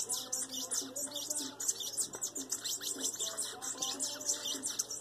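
Cage birds calling without a break: female grey pileated finches and budgerigars, a dense run of rapid high chirps with lower warbling notes underneath.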